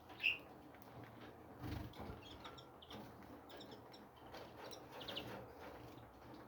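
Small birds in an aviary giving short, high chirps: one loud chirp right at the start, then scattered quieter chirps, with a soft low thump a little under two seconds in.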